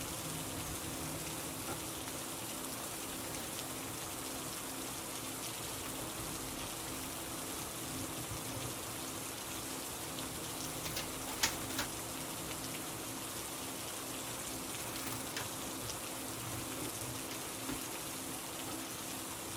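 Rain falling steadily in an even hiss, with a couple of sharper drip-like ticks about eleven seconds in.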